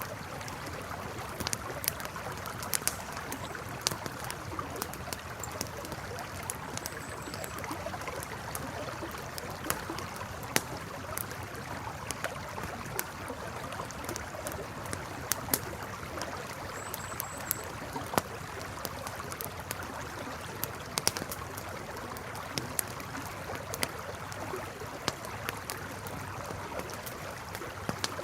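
Campfire crackling, with irregular sharp pops and snaps over the steady rush of a flowing river.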